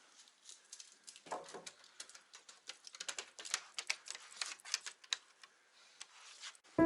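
Dog eating dry food: irregular sharp clicking crunches of kibble, thickest in the middle. Music starts at the very end.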